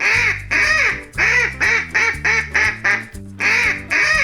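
Duck quacking repeatedly in quick runs of short calls, with a brief pause about three seconds in, over cheerful background music.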